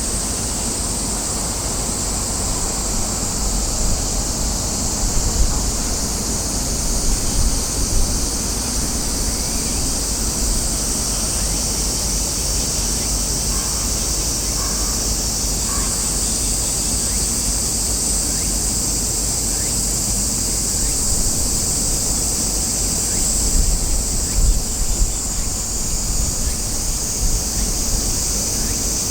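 A steady, high-pitched chorus of summer cicadas, with wind buffeting the microphone in low gusts several seconds in and again near the end.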